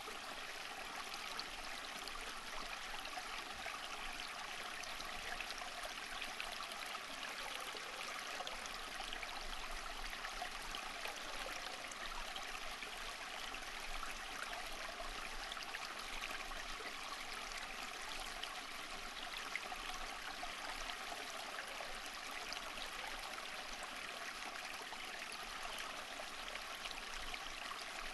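Flowing water of a stream, running steadily with a continuous bubbling, splashing rush.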